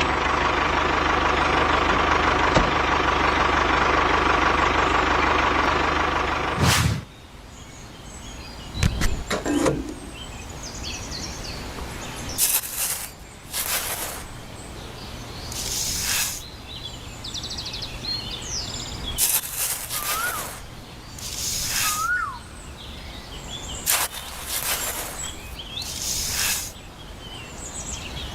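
A small motor running steadily, cutting off abruptly about seven seconds in. Afterwards birds chirp, with several short scraping bursts.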